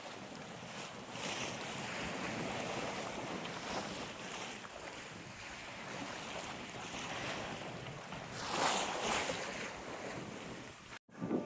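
Sea water rushing and washing around a sailboat's hull under way, with wind buffeting the microphone; a louder wave splash about nine seconds in.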